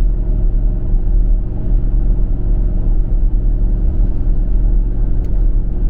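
Steady low drone of a car's engine and tyres on the road, heard from inside the moving car.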